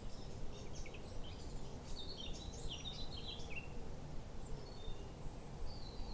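Wild birds singing: many quick, high chirping notes in bursts, thickest in the first half, over a steady low background rumble.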